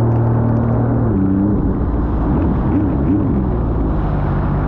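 Sea-Doo GTR230 personal watercraft's supercharged Rotax three-cylinder engine running under way, with rushing water and wind noise; its pitch shifts about a second in.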